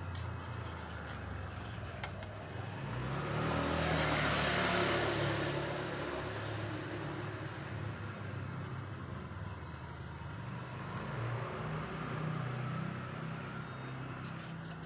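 A motor running with a low, wavering hum, and a rushing noise that swells and fades between about three and seven seconds in.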